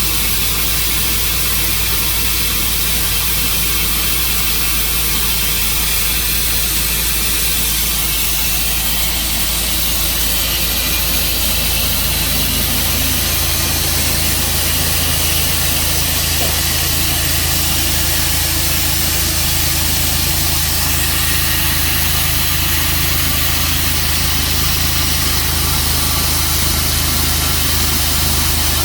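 A sawmill's engine running steadily, its low hum changing slightly about twelve seconds in.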